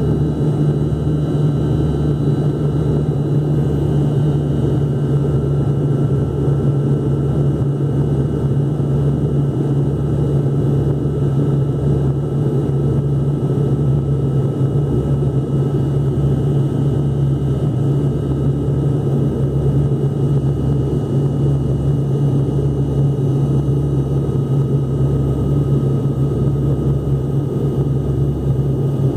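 Steady airliner cabin noise: the engines heard from inside the cabin during the approach, a loud low hum that pulses about once a second, with a few faint high whining tones above it.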